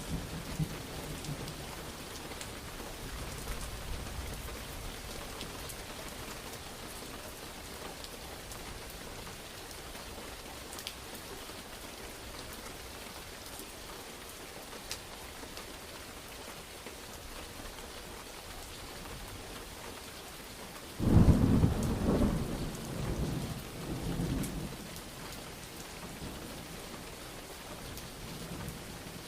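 Steady rain falling throughout, with low rolling thunder at first; about two-thirds of the way through a sudden loud thunderclap breaks out and rumbles on for a few seconds before fading back under the rain.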